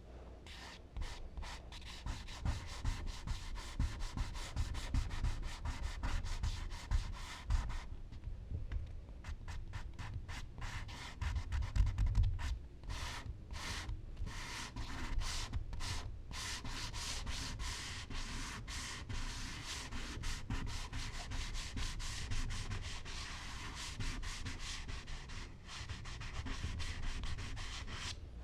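Charcoal rubbing and scratching across smooth Bristol paper in rapid back-and-forth strokes, with a short pause about eight seconds in.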